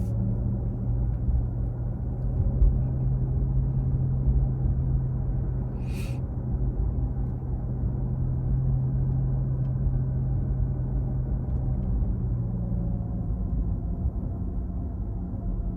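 A Porsche Taycan driving, heard from the cabin: steady low road and tyre rumble with a low hum that fades about twelve seconds in. A single short click about six seconds in.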